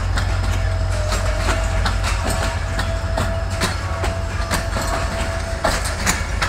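Passenger train coaches rolling past on the adjacent track, with a heavy low rumble and wheels clacking over the rail joints. A thin steady whine runs through the middle and stops about five and a half seconds in.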